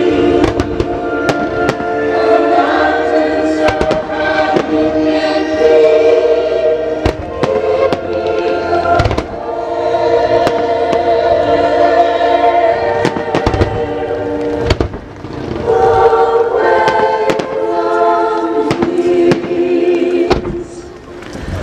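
Musical-theatre music with singing played over the show's loudspeakers, with firework shells bursting in repeated sharp bangs at irregular intervals over it.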